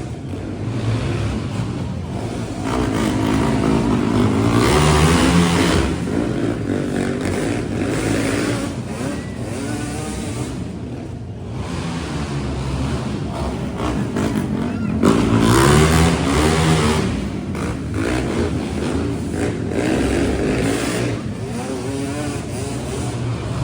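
Monster truck engines running loudly and revving, with two big rising revs, one about five seconds in and one about fifteen seconds in.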